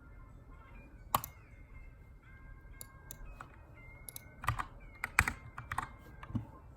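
Keystrokes on a Keychron K2 aluminium mechanical keyboard with brown switches, typed in short, irregular spurts while editing text: one sharp keystroke about a second in, a few light ones around three seconds, then a quick run of keystrokes from about four and a half seconds. Faint background music runs underneath.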